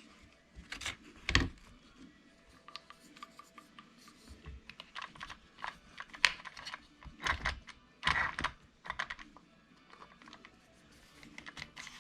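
Irregular clicks and taps of small plastic and metal RC-truck drivetrain parts being handled and fitted together by hand, with a few sharper knocks.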